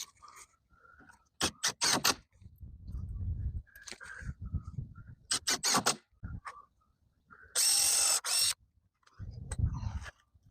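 Hand work on a wooden fence: scattered knocks and clatters, then a cordless drill runs in one short burst about eight seconds in.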